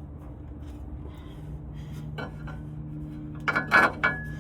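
Metal parts and tools clinking and knocking together during driveshaft work: a light knock about two seconds in, then a few louder ringing clanks near the end, over a steady low hum.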